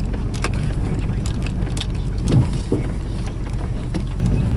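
Pickup truck driving, with a steady low engine and road hum and scattered clicks and rattles. The hum grows a little louder near the end.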